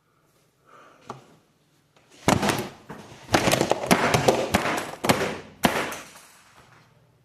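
Someone swatting at flies: a rapid run of sharp slaps and thuds against hard surfaces, starting about two seconds in and going on for some three and a half seconds.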